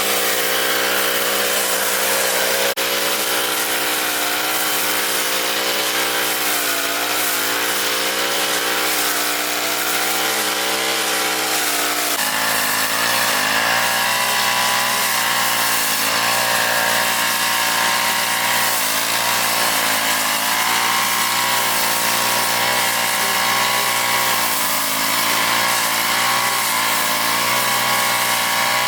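Lawn mower's engine running steadily while cutting grass, its pitch wavering slightly, with a shift in pitch about twelve seconds in.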